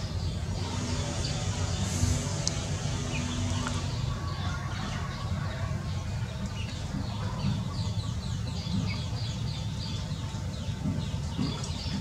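Birds chirping in quick, short, repeated high notes, thickest in the second half, over a steady low rumble. A lower pitched call is heard in the first few seconds.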